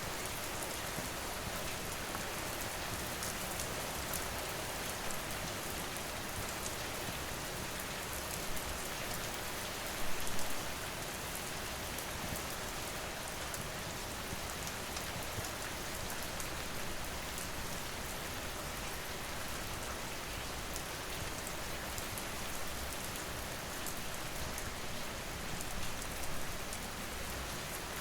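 Steady rain falling, with many small sharp ticks of drops throughout and a brief louder swell about ten seconds in.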